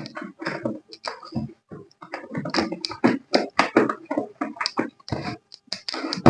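Hands handling packaging and a plastic toy at close range: a dense, irregular run of taps, clicks and scrapes.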